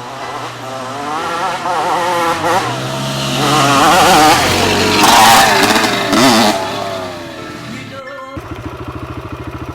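Dirt bike engine revving up and down as the bike rides by, loudest about halfway through. After a sudden cut about eight seconds in, a dirt bike engine runs at a steady low idle.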